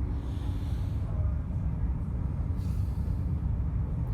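Steady low rumble of a passenger train under way, heard from inside the carriage, with two short faint swells of hiss.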